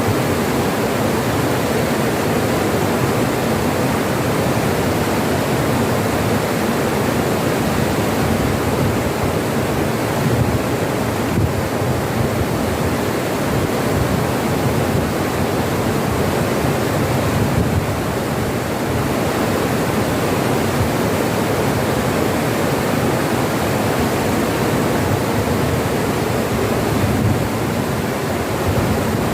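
River water rushing over stones, a steady, unbroken wash.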